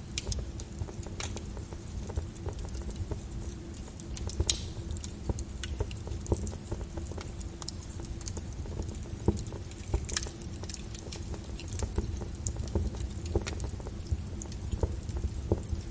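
Wood fire burning in a fireplace, crackling with irregular sharp pops over a low, steady rumble of flame; one louder pop about four and a half seconds in.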